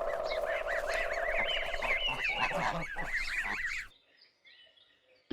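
Geese honking, many short calls in quick succession, cutting off abruptly about four seconds in.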